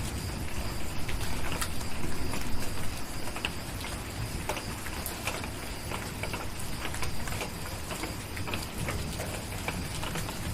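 Steady rain with a low rumble underneath, and a wood fire crackling with frequent sharp pops scattered through it.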